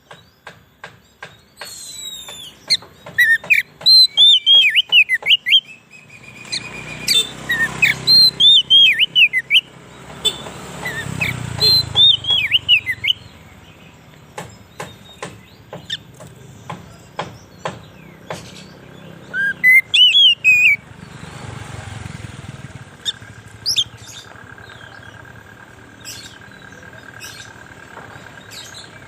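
Oriental magpie-robin (kacer) singing in short bursts of quick whistled notes, mixed with many sharp clicks. A low rumble swells and fades twice, in the middle and about three-quarters through.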